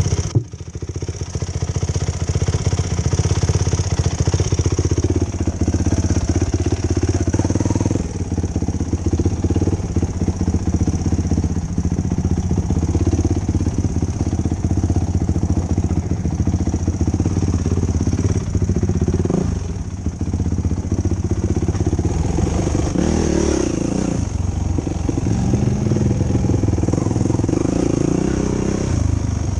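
2005 Yamaha YFZ450 quad's single-cylinder four-stroke engine running on a trail ride, its pitch rising and falling as the throttle is worked. There is a brief drop in sound just after the start, and stronger revving near the end.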